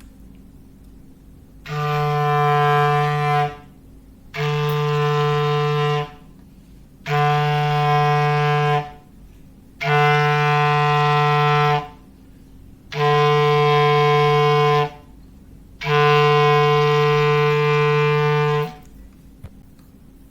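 Foghorn sound effect: six steady, level-pitched blasts of about two seconds each, a second or so apart, the last one the longest. Each blast sounds a low tone together with a higher one.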